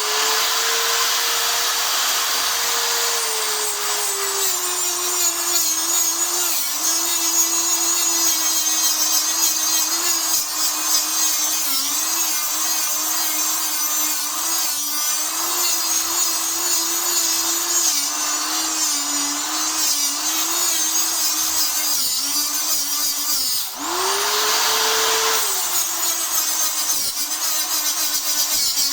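Angle grinder grinding down a weld bead on a motorcycle exhaust part, running steadily under load. Its motor pitch sags when it bites into the metal. About three-quarters of the way through it eases off for a moment, speeds back up, then loads down again.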